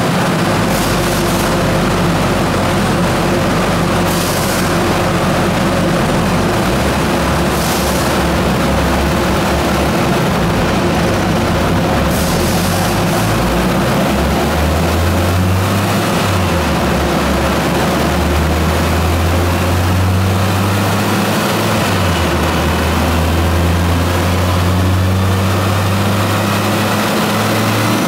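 Tuned Mitsubishi Lancer Evolution IX's turbocharged 4G63 inline-four with an HTA35 turbo kit running loudly, its engine note stepping up and down. There are brief hisses a few times in the first half, and the engine revs up, rising in pitch, near the end.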